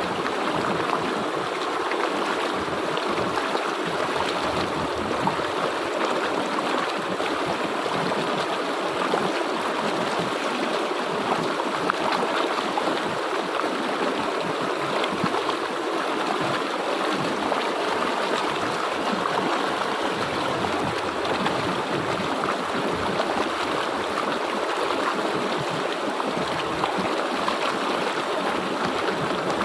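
River water flowing steadily, an even rushing and gurgling that does not change.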